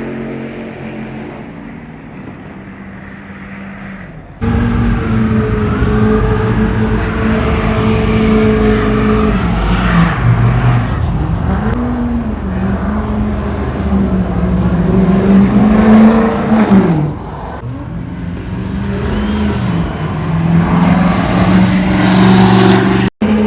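Car engine revving hard and held at high revs, its pitch wavering up and down, with a sharp drop in pitch about 17 seconds in. It starts quieter and jumps abruptly much louder about 4 seconds in.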